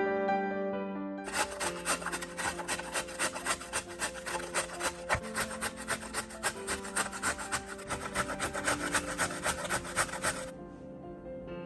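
A carrot being grated on a metal grater: quick, even rasping strokes, about three or four a second, starting about a second in and stopping near the end. Soft background music plays underneath.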